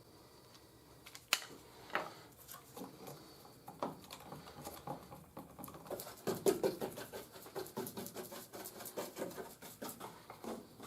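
Light scraping and clicking of a stick stirring MEK-catalysed fiberglass resin in a cup, scattered at first and busier from about six seconds in.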